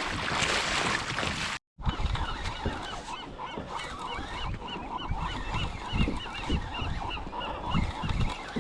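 A flock of birds calling in many short, rapid honking notes, over an uneven low rumble. It starts after an abrupt cut about a second and a half in.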